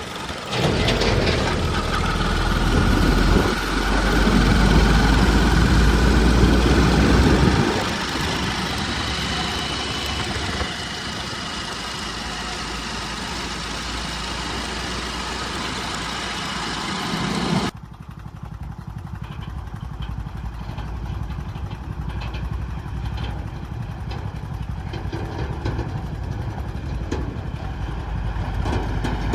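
Diesel engine of a JCB backhoe loader at work, labouring loudly for several seconds near the start and then running more steadily. About two-thirds of the way through, the sound changes abruptly to a quieter, duller engine drone.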